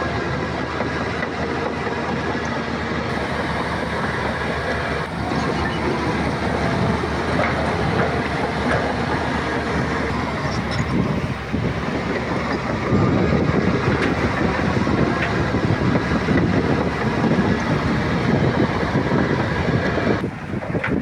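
Shantui crawler bulldozer working: its diesel engine runs under load while the steel tracks clatter, growing louder about halfway through.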